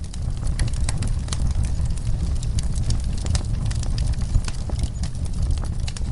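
Wood fire burning in a fireplace, crackling with many sharp pops and snaps, several a second, over a steady low rush of the flames.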